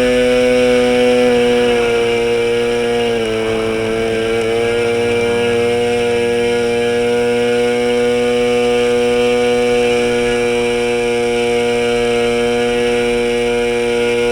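OS 15LA model two-stroke engine fitted with a diesel (compression-ignition) head, running flat out with a 10×6 propeller and making a steady, high buzz. Its speed sags briefly about three seconds in, then holds steady.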